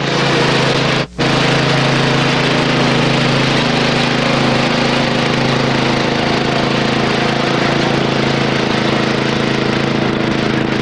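A steady mechanical hum with hiss, dropping out for an instant about a second in.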